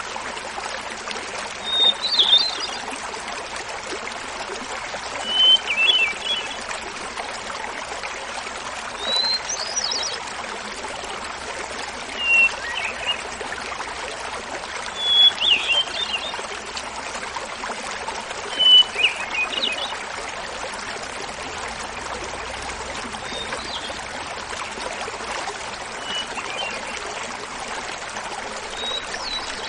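Small mountain waterfall babbling steadily, with a hermit thrush singing short flute-like phrases every three to four seconds, each at a different pitch; the later phrases are fainter.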